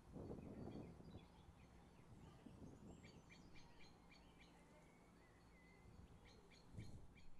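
Faint, quick chirps from small birds over a low background rumble, with a brief low swell just after the start and another near the end.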